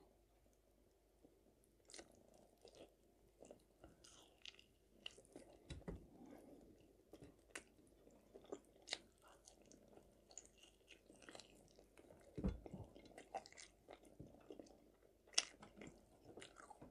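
Faint chewing of chicken meat and stewed cabbage, with scattered soft mouth clicks and small taps, starting about two seconds in.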